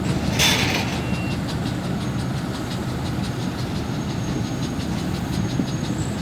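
Ship's engine running steadily, a low rumble with an even beat, while vessels are worked off the wharf by tugboats; a brief hiss sounds about half a second in.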